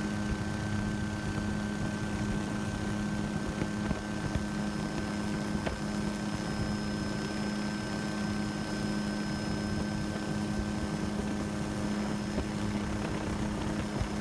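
Helicopter in flight, heard from on board: a steady engine and rotor drone with a constant low hum and a faint steady high whine over rushing noise.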